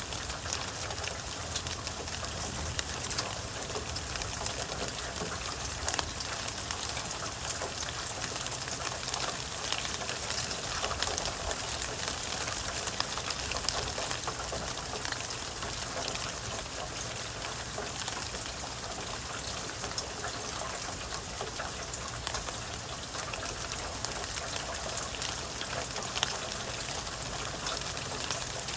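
Steady rain falling, with many close drips and raindrop ticks spattering on surfaces.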